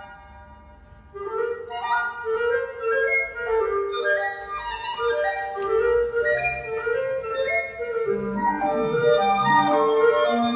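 Woodwind trio of flute, C clarinet and B-flat clarinet playing: after a quiet first second, quick short notes start about a second in and overlap between the three instruments, with lower clarinet notes joining near the end.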